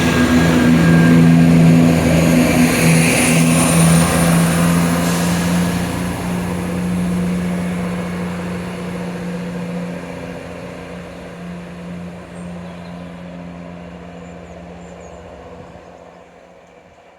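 A train running through the station with a steady low hum, loud at first, then fading gradually as it moves away.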